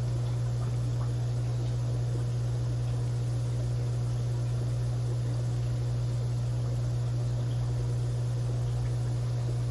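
Aquarium pump running: a steady low hum with a faint hiss over it.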